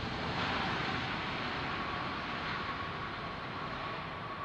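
Jet airliner engines running: a steady rushing noise with a thin, steady whine.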